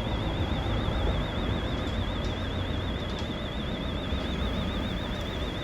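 Steady low rumble and outdoor background noise at a vehicle yard, with a faint continuous warbling high tone.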